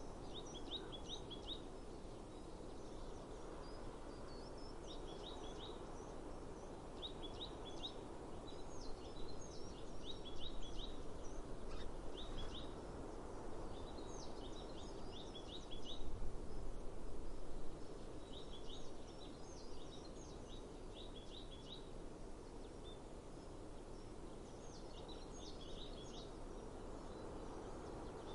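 A small songbird singing short, quick phrases of high chirping notes, repeated every couple of seconds, over a steady outdoor hiss of breeze and ambient noise. The background noise swells louder twice, about a third of the way in and again a little past halfway.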